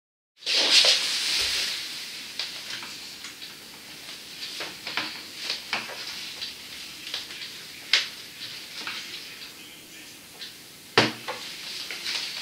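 Scattered small clicks and knocks over a faint hiss, with a short rush of hiss just after the start. A sharper knock comes about eight seconds in and the loudest about eleven seconds in.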